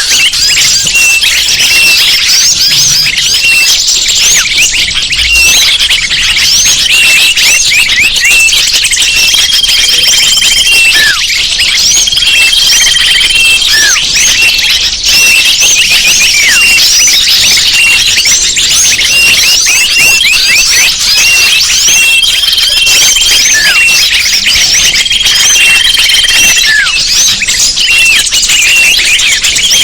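Bird-lure recording: a dense, loud chorus of many small birds chirping and twittering rapidly, with short held whistles recurring every few seconds and the odd falling call.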